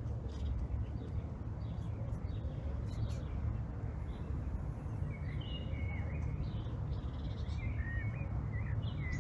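Small birds chirping and twittering in short, quick calls, busiest in the second half, over a steady low rumble.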